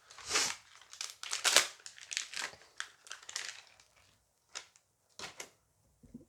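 Dice Masters booster pack wrapper crinkling and rustling in the hands as it is opened: a dense run of crinkles over the first four seconds, then a few short separate ones.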